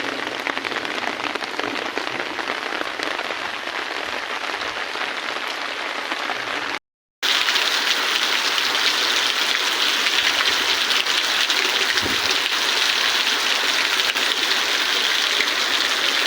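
Heavy monsoon rain pouring down steadily. It breaks off for a moment about seven seconds in, then comes back louder and hissier.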